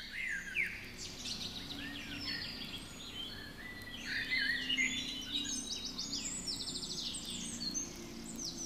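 Several songbirds singing and chirping at once, short whistled calls and quick trills overlapping.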